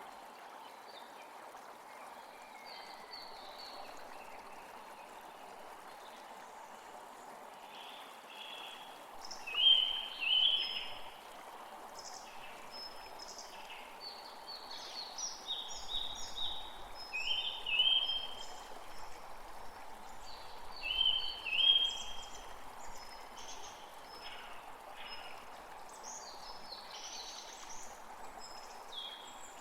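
Songbirds calling in short repeated chirping phrases over a steady background hiss of running water or rain. The loudest bursts of song come about ten seconds in and again near 18 and 22 seconds.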